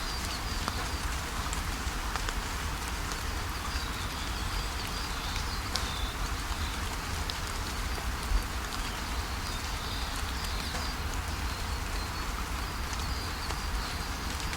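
Steady rainfall with raindrops pattering and tapping, one louder tap about eight seconds in, and a low rumble underneath. Faint high bird calls come and go above the rain.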